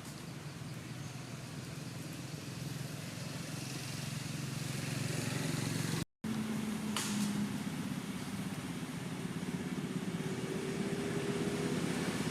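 Steady low hum of a running motor vehicle engine over background noise, growing louder with a higher engine tone near the end. The sound cuts out completely for a moment about six seconds in.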